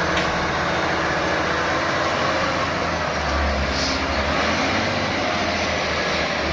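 Heavy diesel truck engines running hard under load, a steady deep rumble with dense mechanical noise, as the trucks strain to pull through mud.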